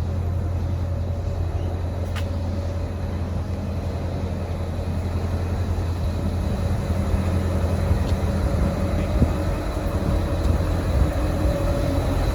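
Diesel railcar idling with a steady low drone.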